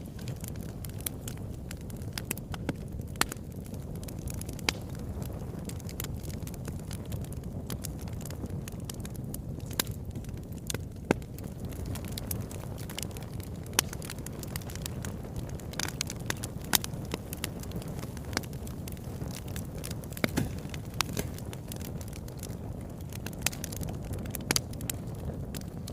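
Wood fire burning in a fireplace: a steady low rumble of flames with frequent irregular sharp crackles and pops throughout.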